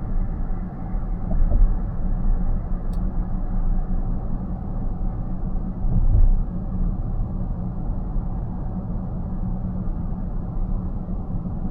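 Road and tyre rumble inside a car's cabin at about 68 km/h, steady, with a low thump about six seconds in.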